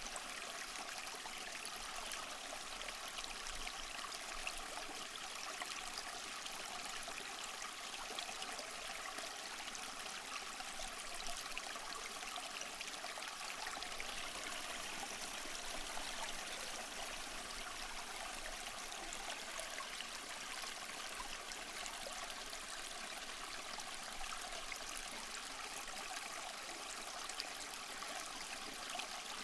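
Small mossy waterfall: water splashing and trickling over rocks in a steady, even rush.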